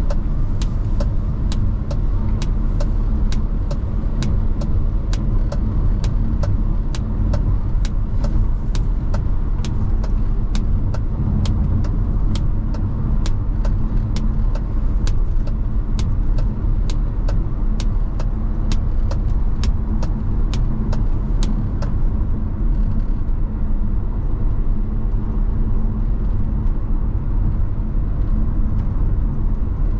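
A car driving, heard from inside the cabin: a steady engine and road rumble. Over it runs an even ticking of about two clicks a second, which stops about two-thirds of the way through.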